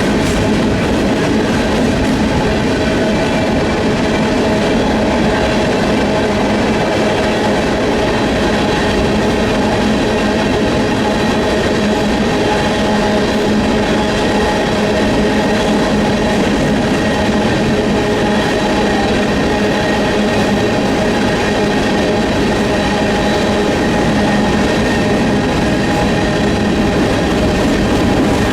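Freight train cars rolling past on the rails: a loud, steady, unbroken clatter of wheels on track.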